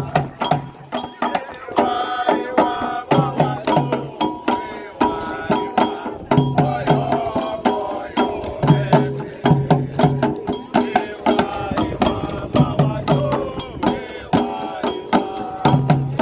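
Candomblé toque: atabaque hand drums beating a fast rhythm with deep tones in short repeated groups, under a struck bell and singing voices.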